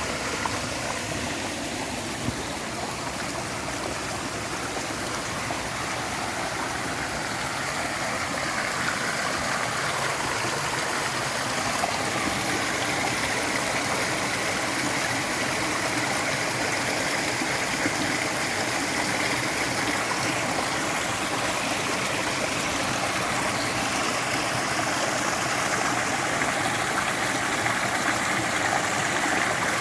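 A mountain stream running over rocks, a steady, even rush of water.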